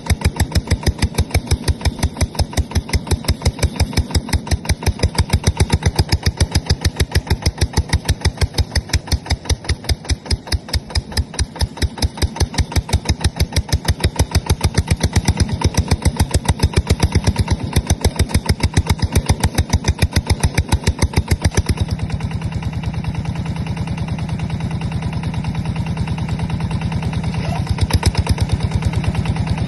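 Yanmar TF150 single-cylinder diesel engine running with a steady, evenly spaced firing beat. For several seconds about two-thirds of the way through the beat blurs into a smoother, more even sound, then the sharp beat returns.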